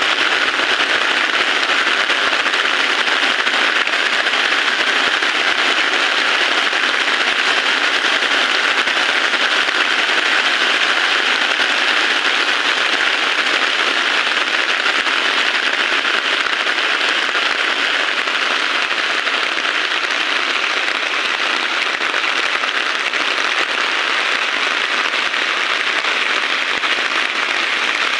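Heavy rain falling steadily, a dense even hiss with no breaks or thunder.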